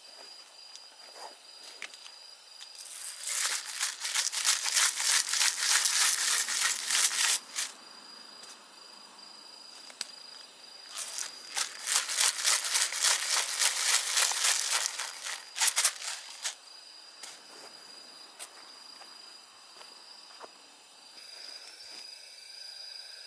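Two bouts of loud crinkling and crumpling, one about four seconds long and one about five, each made of many rapid crackles, over a faint steady high-pitched whine.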